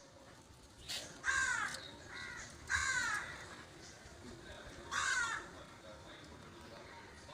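A bird squawking: four harsh calls, each falling in pitch, the first three close together in the first three seconds and the last about two seconds later.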